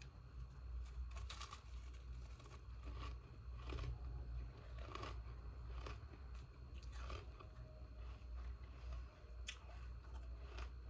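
Close-up crunching and chewing of hard ice pieces taken from the freezer, a sharp crunch every second or so with softer chewing between. A steady low hum runs underneath.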